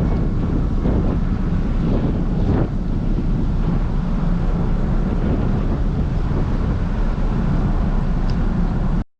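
Wind buffeting the microphone over a steady low rumble, as of a ferry under way, cutting off abruptly near the end.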